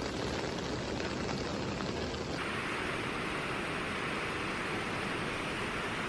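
Steady rushing noise of floodwater, changing abruptly about two and a half seconds in to a brighter hiss.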